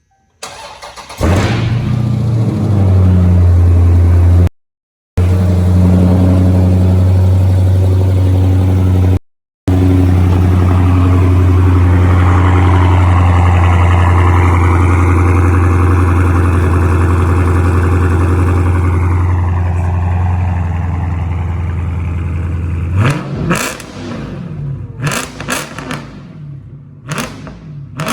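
2018 Dodge Challenger Scat Pack's 392 (6.4-litre HEMI V8) cold start: the starter cranks briefly, the engine catches about a second in and runs at a loud, steady fast idle. Near the end it drops lower and is revved several times in quick blips.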